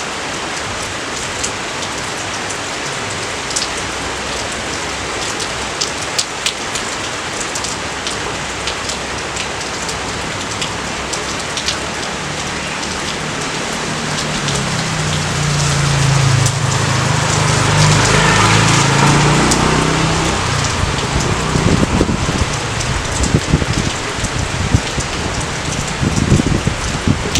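Steady rain falling, an even hiss. About halfway through a low rumble swells up for several seconds and fades, and near the end irregular low crackles and pops join the rain.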